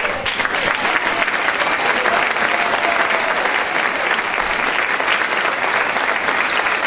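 Audience applauding, steady clapping that starts all at once.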